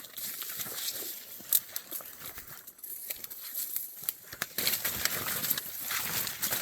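Rustling and crackling of marsh plants being brushed through, with scattered sharp clicks and snaps.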